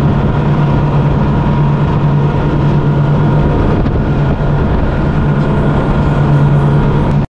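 Yamaha V8 outboard motors running at wide-open throttle, pushing a 40-foot center-console boat at about 60 mph: a loud, steady, unchanging engine drone over a constant rushing noise. The sound cuts off suddenly at the end.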